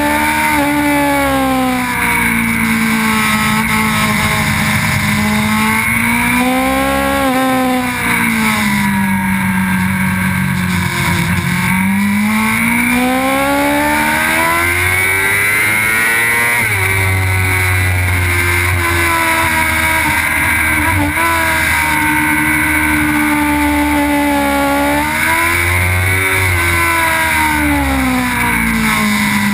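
Suzuki GSX-R sport bike's inline-four engine running hard on track over a steady rush of wind. The engine note climbs and falls again and again as the bike accelerates out of corners and slows into them, with a long rising pull about halfway through.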